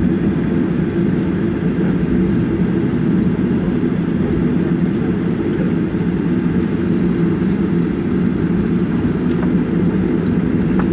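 Steady, even rumble of a Boeing 737-800 heard from inside the cabin: its CFM56 jet engines and the airframe on the ground just after landing.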